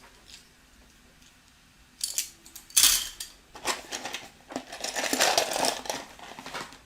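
Loose plastic building bricks clattering as they are rummaged through and dropped, starting about two seconds in with a sharp clatter, then a longer stretch of rattling and shuffling.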